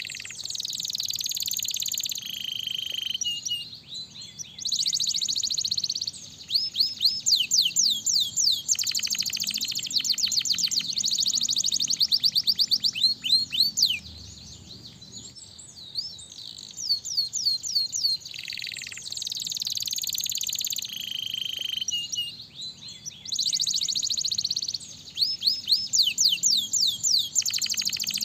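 Domestic canary singing a long song of fast trills and rising and falling whistled notes, with a brief pause about halfway through before the song starts again.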